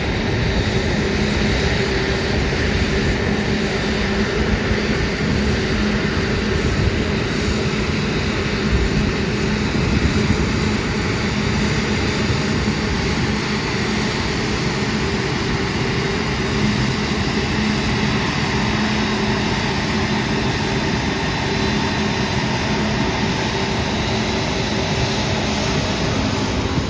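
Airbus A380 jet engines running at a steady drone, with a low hum underneath that holds constant.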